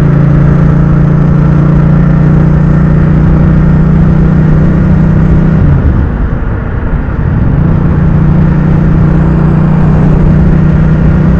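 Motorcycle engine running at a steady cruising speed, with wind rumble on the microphone. Near the middle the engine note drops away for about two seconds, then comes back steady.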